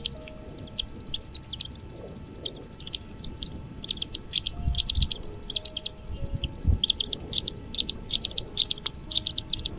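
Birds chirping in rapid, high-pitched runs of short notes, with a few rising whistles, and some low thumps about halfway through.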